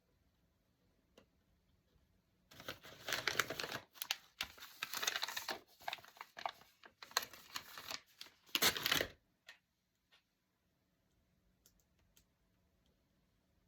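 Paper being torn and crinkled by hand in a run of about six rasping strokes over several seconds, then a few faint taps.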